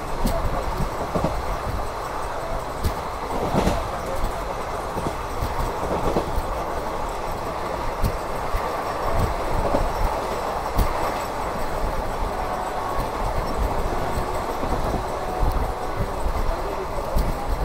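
Passenger train coach running along the track: a steady rumble with irregular clicks and knocks from the wheels running over rail joints.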